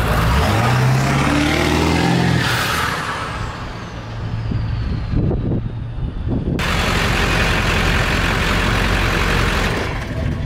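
Ford 7.3 L Powerstroke V8 turbo-diesel pickup with a 10-inch exhaust tip accelerating past. The engine note rises in pitch over the first two seconds, then a high turbo whistle falls in pitch over the next few seconds as the truck goes by, followed by steady engine and road noise.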